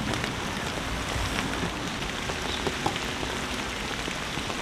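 Heavy rain falling steadily, an even hiss with scattered drops tapping on nearby surfaces.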